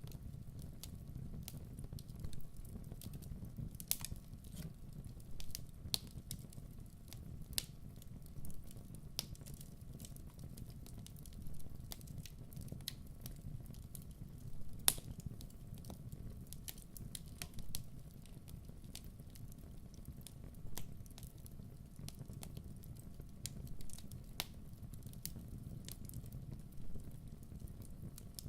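Wood fire burning with a steady low rumble and frequent irregular crackles and pops, one sharper pop about halfway through.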